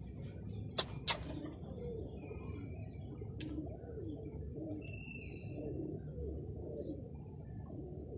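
Domestic pigeons cooing, many low overlapping calls throughout, with higher chirping over them. Two sharp clicks about a second in, and another a few seconds later.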